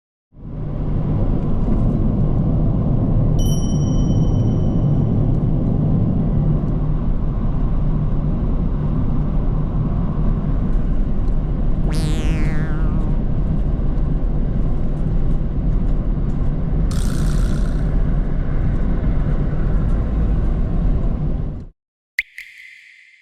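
Steady low rumble of a moving vehicle, which cuts off suddenly near the end. A short ding sounds early on, a falling whistle comes about halfway, and a short tone follows just after the rumble stops.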